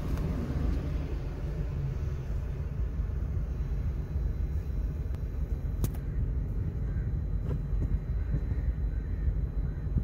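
Steady low rumble of a Pakistan Railways GE diesel locomotive hauling a container train, with a couple of faint clicks.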